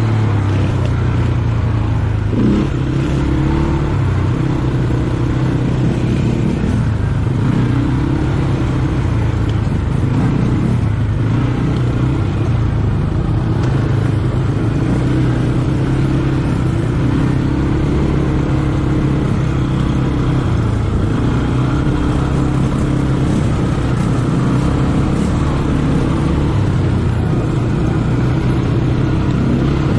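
ATV engine running steadily while riding, its pitch shifting up and down with the throttle.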